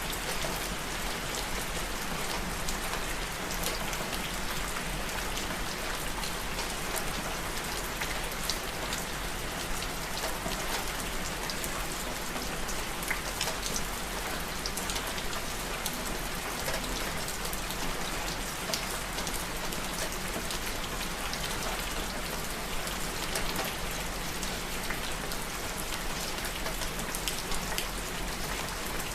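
Steady rain falling, with many fine drop ticks on a hard surface and a faint low hum underneath.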